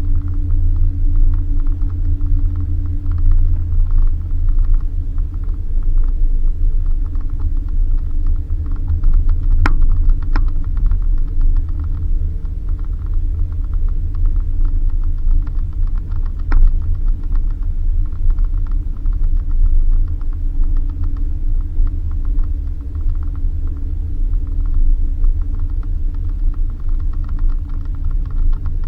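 Suzuki Jimny driving on a dirt road: a steady low engine and road rumble with a fine rattle. A few sharp clicks come about a third of the way in and again a little past the middle.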